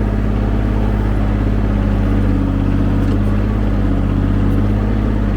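Ford 1520 tractor-loader-backhoe's three-cylinder diesel engine running steadily at working speed while the backhoe digs.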